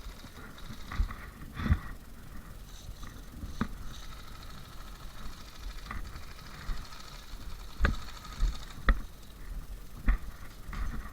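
A handful of sharp, isolated clicks and knocks at uneven intervals, over low rumbling and a faint steady high buzz.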